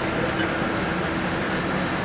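Jet airliner noise from a Boeing 787-8: a steady, loud rush with a strong high hiss over a low rumble.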